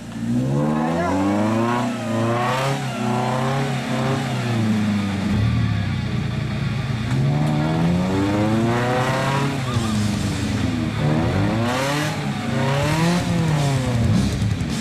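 Off-road 4x4's engine revving up and down again and again as it works through deep mud, its pitch swinging high and low several times.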